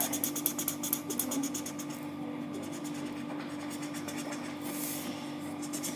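Quick back-and-forth strokes of a drawing tool scratching on paper, colouring in a shape, for about the first two seconds, then a short scratch near the end. A steady low hum sits underneath.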